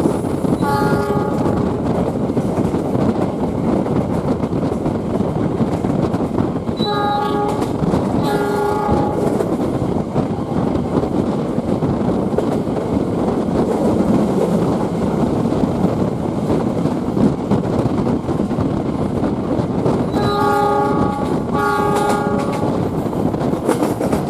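Train horn sounding in short blasts: one about a second in, a pair about six seconds later, and another pair near the end. Under it runs the steady rumble of the train moving along the rails.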